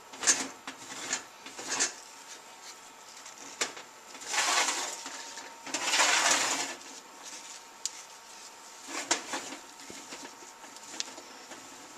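Wet paper towel wiped around the rims of filled glass canning jars, with two longer rubbing swishes in the middle and light clicks and knocks of the glass jars before and after.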